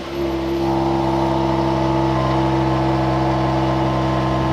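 Mercedes-AMG GLE 53's 3.0-litre turbocharged inline-six idling steadily just after being started, settling into an even idle in the first second.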